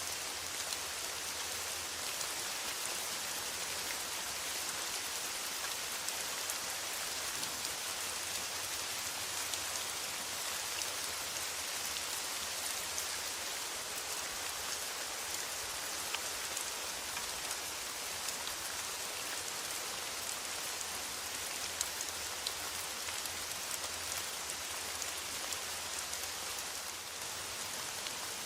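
Steady rain on a metal roof: a dense, even hiss dotted with many small ticks of single drops.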